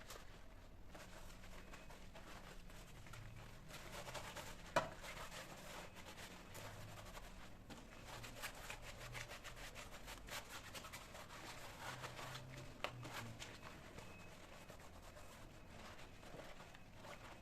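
Faint rubbing and scratching from hands handling things, with scattered small ticks, a sharp click about five seconds in and a lighter one near the end.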